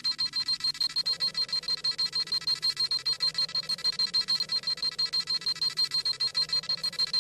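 Dragon Ball Z scouter sound effect: the scouter's high electronic scanning tone, pulsing rapidly and evenly as it reads a power level.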